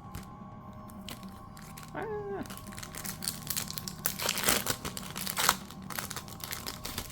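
Mini Pokémon booster pack wrappers crinkling and tearing as packs are opened by hand. The crackling is irregular and gets densest and loudest about four to five and a half seconds in.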